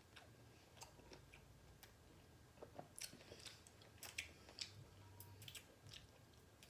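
Faint close-up chewing of pickle slices spread with whipped topping: scattered soft wet mouth clicks and small crunches, more frequent in the second half.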